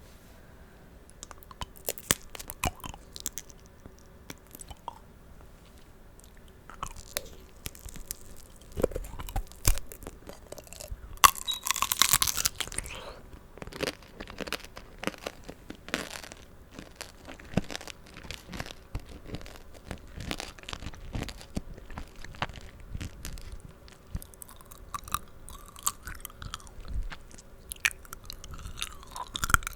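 Close-miked mouth sounds of eating tanghulu: the hard sugar-candy shell on the fruit cracking and being chewed in repeated crisp crunches, with the loudest, longest crunch about eleven seconds in.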